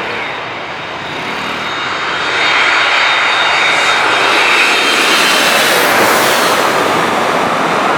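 An airliner's engines pass close by, swelling loud about two seconds in and staying loud, with a thin high whine over the roar.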